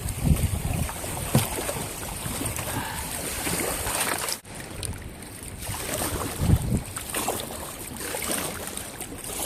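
Strong wind buffeting the microphone over choppy, whitecapped lake water, with the water splashing and slapping in uneven surges.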